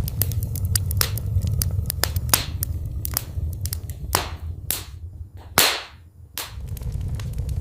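Wood fire in a fireplace crackling: irregular sharp pops and snaps over a low steady rumble. A loud pop comes a little past halfway, and the rumble falls away for about a second after it before returning.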